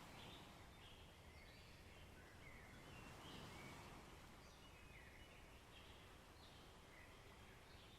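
Faint forest ambience: small birds chirping in short scattered calls, many times, over a low steady wash of distant waves.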